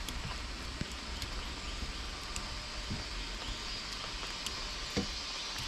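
Steady outdoor hiss with three soft low thumps spread through it and a few faint high ticks.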